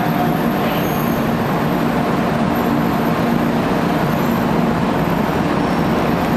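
Steady hum and noise of a 500 Series Shinkansen standing at a station platform, unchanging throughout.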